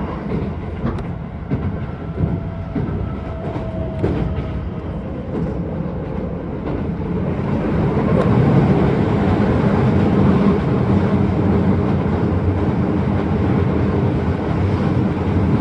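Keisei 3000-series electric train running, heard from inside the passenger car: wheels clicking over rail joints, with a faint steady tone in the first half. About eight seconds in, the running noise grows louder and then holds steady.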